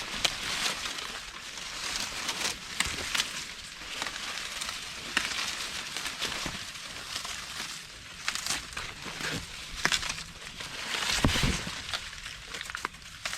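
Dry corn plants rustling and crackling as ears are picked by hand: husks and leaves crinkle, with repeated sharp snaps and a dull thump near the end.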